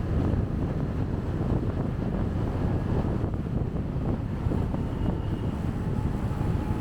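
Wind buffeting a chest-mounted camera's microphone on a moving motorcycle, over a steady rumble of engine and road.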